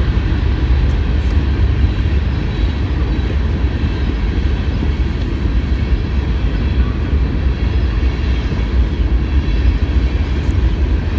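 CSX freight train rolling slowly past: a steady low rumble with a few faint clicks.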